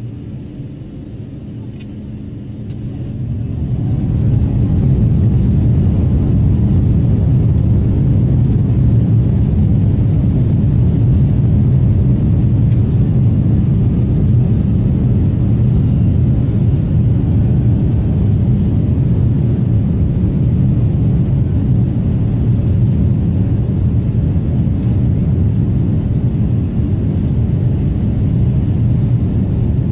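Airbus A350-900's Rolls-Royce Trent XWB jet engines running, a low rumble that builds over the first few seconds as thrust comes up, then holds steady and loud.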